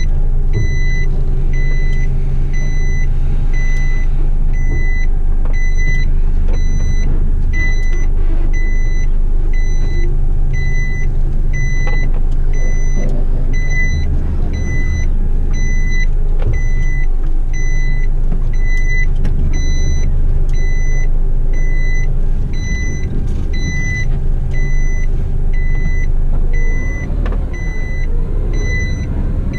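Heavy truck's reversing alarm beeping about once a second over the steady low running of the truck's engine as it backs up.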